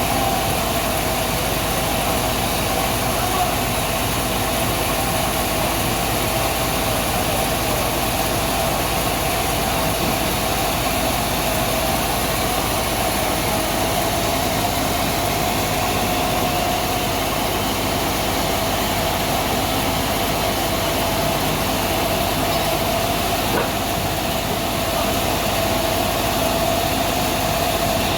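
Sawmill machinery running steadily while sawing a large trembesi (rain tree) log: an unbroken mechanical din with a steady hum.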